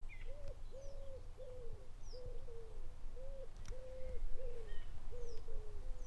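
A bird calling a long run of short low notes, about two a second, with fainter high chirps of small birds above it and a low rumble underneath.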